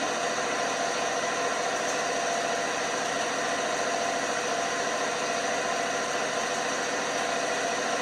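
LG washing machine running steadily, an even whir with a constant motor whine, no pauses or changes in pace.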